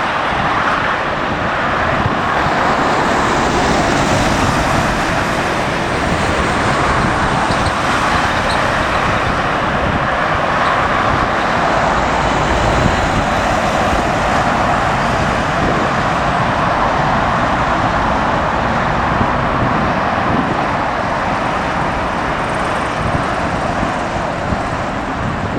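Steady, loud jet-engine rushing from airliners, mixed with strong wind buffeting the microphone as an unsteady low rumble.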